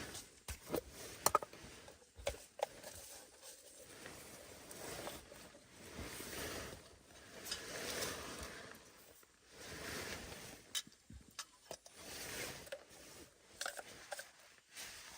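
Rustling and scraping handling noise in swells every two to three seconds, with scattered sharp clicks and knocks.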